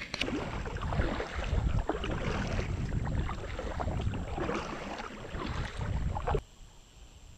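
Kayak moving across the lake: water splashing and rushing against the hull in surges about once a second, which stops suddenly near the end.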